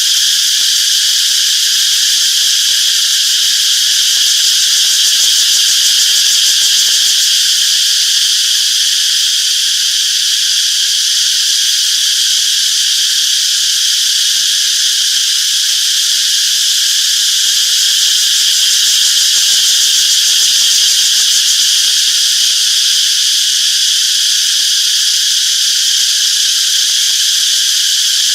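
A chorus of cicadas buzzing loudly and steadily, a continuous high-pitched drone with no breaks.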